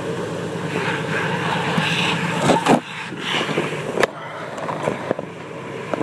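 Automatic car wash running around an open truck bed: a steady rush of spraying water and machinery, with a few sharp knocks in the middle.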